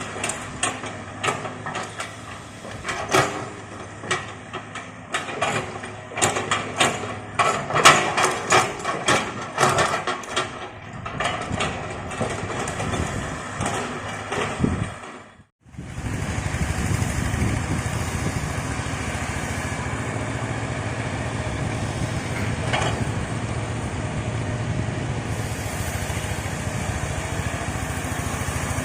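Excavator working: its engine runs under many irregular clanks and knocks for about the first half. Then, after a brief break in the sound, the engine drones steadily.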